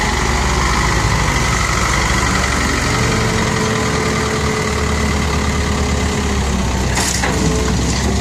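Six-wheel dump truck's diesel engine running steadily at idle, with a couple of short knocks about seven seconds in.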